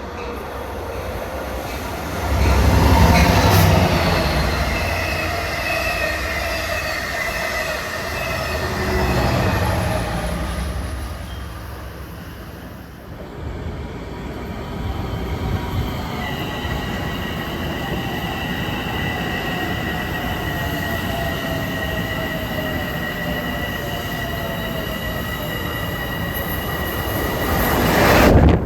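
Long Island Rail Road commuter train rolling past, with a loud low rumble about two seconds in and again near the tenth second. From about halfway on come a steady high-pitched wheel squeal and a slowly falling motor whine as the train slows.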